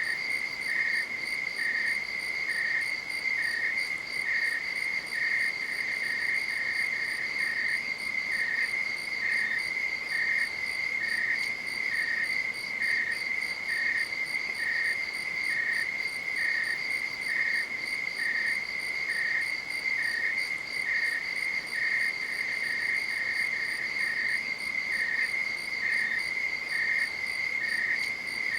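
Night insects calling, crickets: one keeps up a steady high-pitched trill while another chirps just below it, a little more than once a second.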